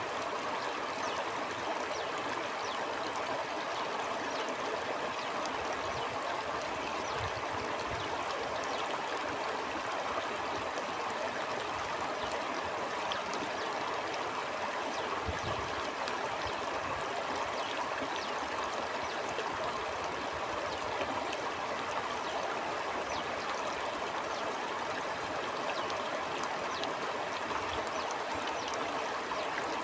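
Stream of water flowing steadily over stones, a constant rushing with many small splashes and gurgles.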